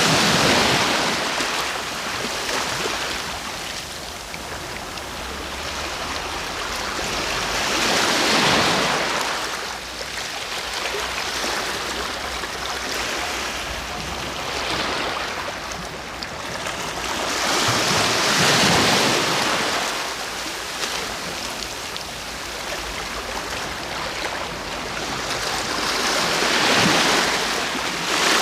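Sea waves breaking and washing in, with a surge of surf about every nine seconds and a softer wash between the breakers.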